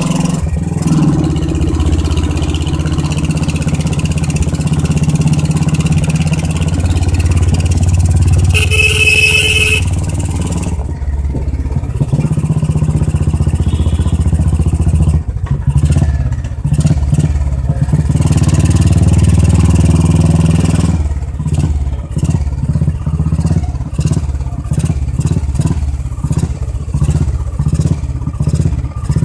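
Royal Enfield single-cylinder motorcycle with a loud exhaust, running steadily under way. A horn sounds for about a second a third of the way in. About two-thirds of the way through, the engine note breaks into separate, distinct thumps.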